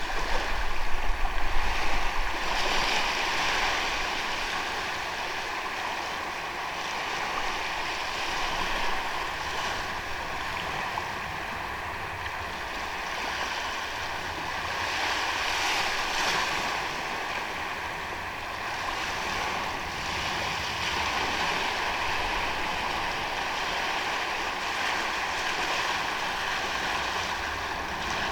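Ocean waves washing onto a sandy beach, the surf swelling and easing every several seconds. A low buffeting rumble sits under it in the first two seconds.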